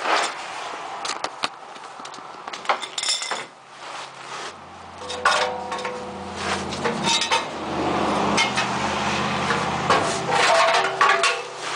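Metal clanking and knocking of steel exhaust pipes and hangers being wiggled and pulled loose under a pickup truck. A steady low hum with changing held pitches joins about four seconds in.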